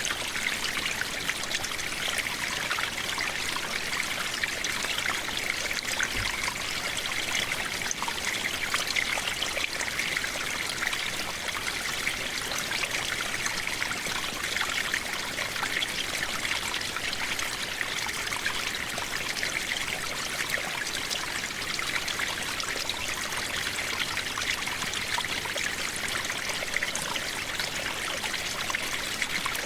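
Steady rain falling: a dense, even patter of countless drops, unchanging in level.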